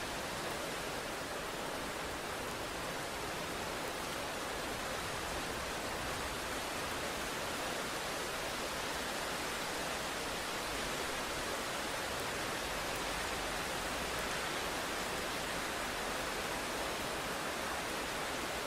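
Steady rain, an even hiss that holds level throughout.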